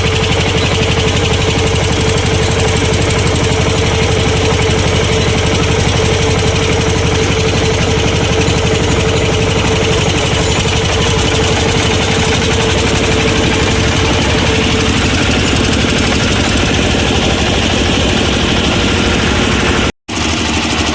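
Water-cooled generator engine running steadily, with an even, rapid firing rhythm. The sound cuts out completely for a moment near the end.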